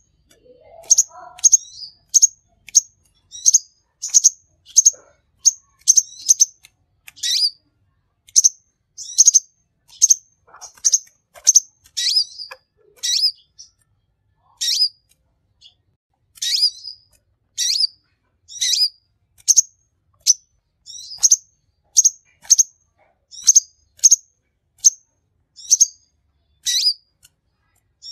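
Sunbird ('king konin', kolibri) singing a long series of short, high, sharp chirps, about one a second, some sweeping down in pitch.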